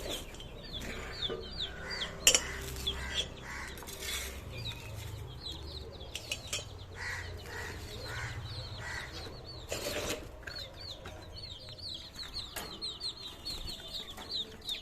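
Small cage birds chirping and chattering: many short, quick high calls, with a couple of sharp knocks about two seconds in and again around ten seconds.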